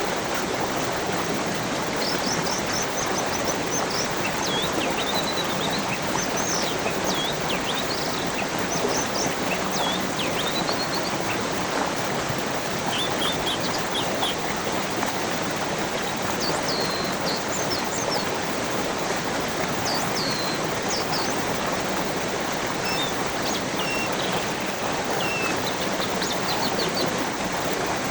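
A stream running steadily, with small birds chirping and whistling over it throughout.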